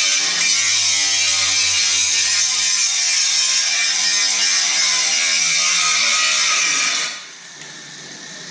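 Angle grinder grinding steel, a loud steady whine with a harsh metallic hiss. About seven seconds in the grinding stops abruptly and the sound falls to a much quieter level.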